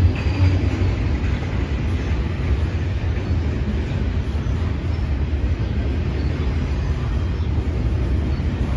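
Double-stack intermodal container freight train rolling past, a steady noise of wheels on rail.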